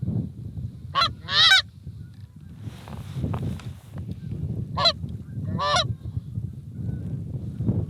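Goose honks: two pairs of loud, pitched calls, the first about a second in and the second near the middle, over a steady low rumble.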